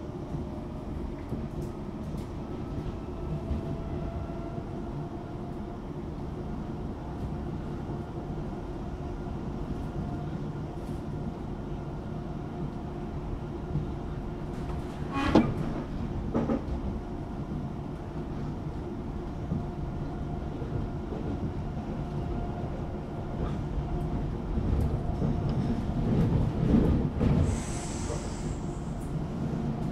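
Class 378 electric multiple unit running along the line, heard from inside the carriage: steady rumble with the traction motors' whine, which rises a little in pitch at first. There is a sharp knock about halfway through, and the sound grows louder and hissier near the end.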